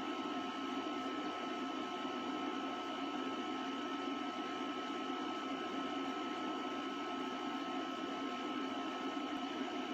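A steady hum and hiss with a couple of faint, constant high whining tones that never change.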